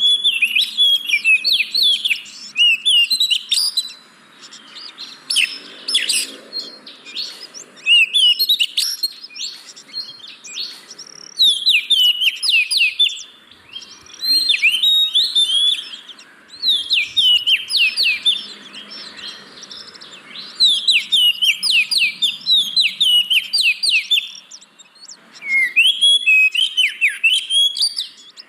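Oriental magpie-robin (kacer) singing: loud, rapid runs of varied chirps and whistles in phrases of one to three seconds, separated by short pauses.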